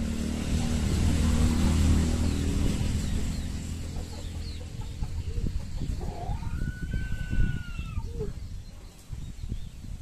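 A bird's single long call, about two seconds, rising then falling in pitch, about two-thirds of the way in. Before it, a low rumble fades away over the first half.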